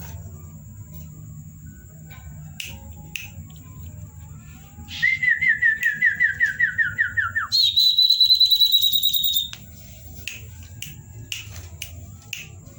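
Common iora singing about five seconds in: a quick run of whistled notes, each sliding down, for about two and a half seconds, then a faster, higher whistled trill for about two seconds. A steady thin high tone and a low hum continue underneath, with a few scattered clicks.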